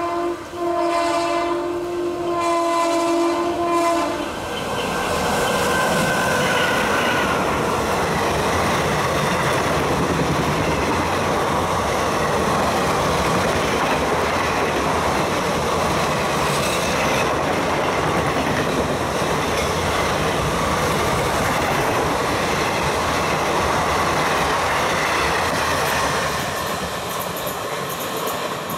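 Indian Railways WAM-4 electric locomotive sounding a long horn blast, broken briefly near the start, for about four seconds as it passes. After that comes the steady rumble and clickety-clack of ICF coaches running through the station at speed.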